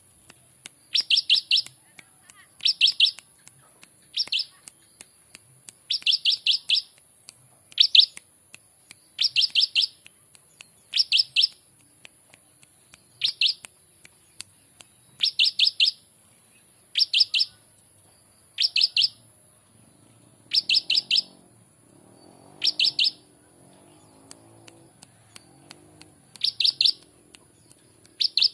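Prenjak (prinia) singing in short bursts of quick, sharp repeated notes, one burst every second or two. The song is of the ciblek-like type used as a master recording for training songbirds.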